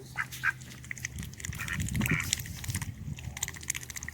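Ducks moving about close by, with scattered rustling and clicking and no clear quacks.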